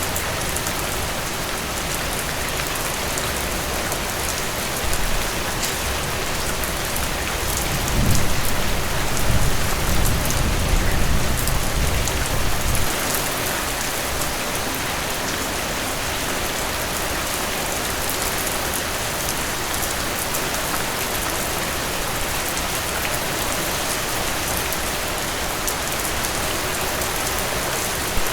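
Steady heavy rain falling. About eight seconds in, a low rumble of thunder rolls for roughly five seconds, then fades back under the rain.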